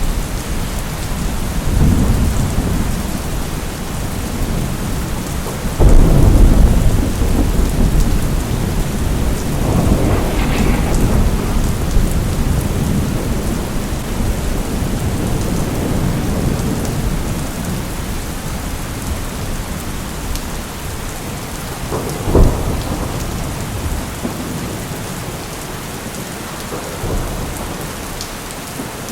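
Steady rain with thunder: a sudden loud thunderclap about six seconds in that rolls on for several seconds, and a short sharp crack about two-thirds of the way through.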